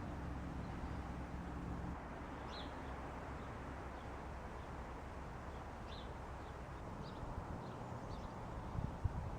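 Outdoor spring ambience: a steady background rush with a few short, high bird chirps scattered through, and a low hum that fades out about two seconds in. A couple of low thumps come near the end.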